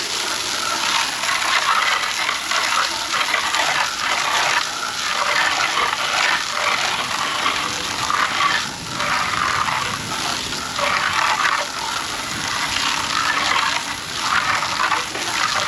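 A jet of water spraying a car's wheel and tire, rising and falling as the spray is swept across it, with brief dips where it moves off.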